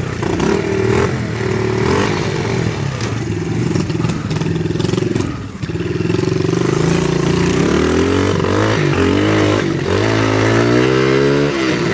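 Small off-road vehicle engine running and being revved. The pitch rises and falls several times, dips briefly about halfway through, and climbs then drops near the end.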